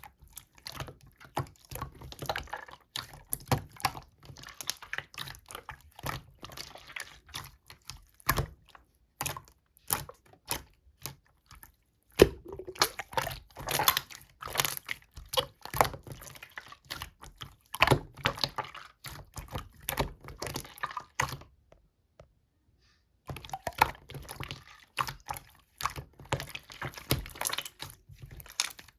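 Slime being squeezed and kneaded by hand, making dense, irregular wet clicks and small air-bubble pops, with a brief pause late on.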